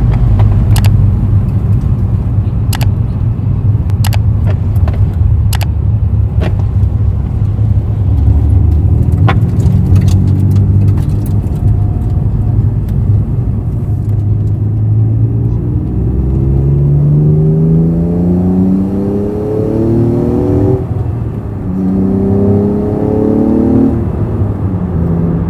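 Honda NSX NA1's V6 with an aftermarket titanium exhaust, first running at steady revs, then accelerating. Its note rises twice in the last ten seconds and drops at each upshift. A scattering of sharp clicks sounds over the first ten seconds.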